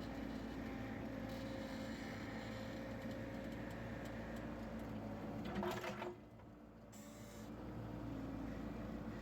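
Harbor Freight bandsaw sawmill's gasoline engine running steadily. A short louder rasp comes a little past the middle, and then the sound drops away for about a second before the running hum comes back.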